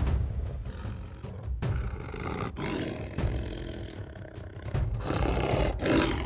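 Bengal tiger growling in low, uneven rumbles that swell loudest about five to six seconds in.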